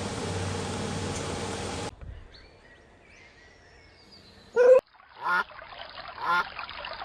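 Domestic fowl calling: a single loud call about halfway through, then short calls repeated about once a second. These follow about two seconds of noisy background with a low hum at the start.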